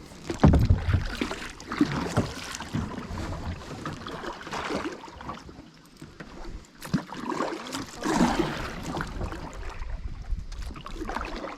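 Kayak paddle strokes dipping and splashing in the water, uneven and repeated, with water sloshing against the hull.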